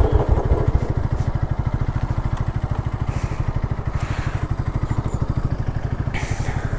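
Royal Enfield Bullet single-cylinder motorcycle engine running with a steady, even beat of exhaust pulses.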